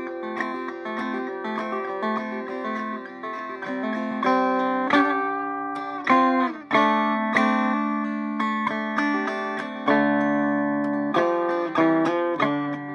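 Electric Vega banjo from about 1936-37, tuned to mountain minor, picked in a continuous run of ringing notes. A short sliding pitch comes about six seconds in, followed by strong plucked notes.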